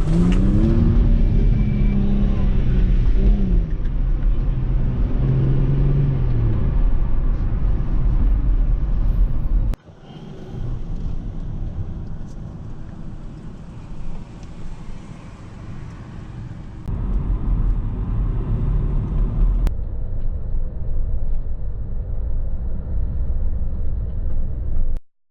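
Lowered, modified cars' engines running and revving as they pull away, with a rising and falling engine note in the first few seconds. The sound changes abruptly several times between shots.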